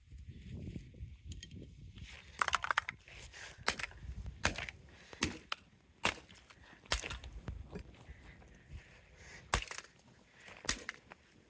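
Air conditioner remote control being broken apart: a series of sharp cracks and knocks, irregularly about one a second.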